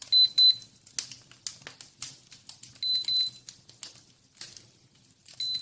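Handheld temperature gun beeping in short, high double beeps three times, about two and a half seconds apart, over the irregular clicks and pops of a wood fire crackling in an open fireplace.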